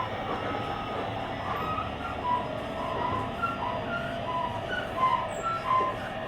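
Running noise of a JR Kyushu 885 series electric train, heard from the deck between cars, with a string of short high tones sounding over it through the middle of the stretch.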